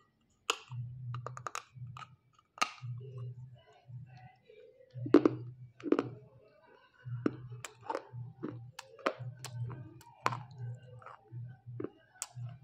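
Close-miked crunching as a hard piece of roasted clay is bitten and chewed: sharp, irregular cracks, the loudest about five seconds in, over a low dull pulse that comes with each chew.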